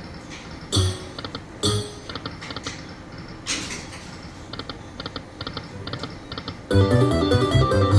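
Electronic poker machine running through a spin: rapid small electronic ticks as the reels go round, two sharp thumps about a second in and again almost a second later, and a loud chiming run of stepped notes over the last second or so.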